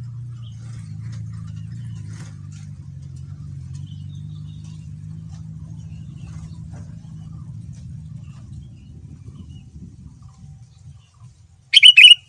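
A low hum that fades out after about ten seconds, then near the end a short, loud burst of quick chirping notes from a sooty-headed bulbul.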